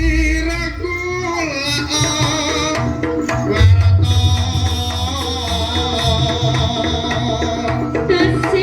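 Javanese jaranan music: kendang hand drums beating a busy rhythm under a melody line that bends in pitch, with a high held tone through the middle.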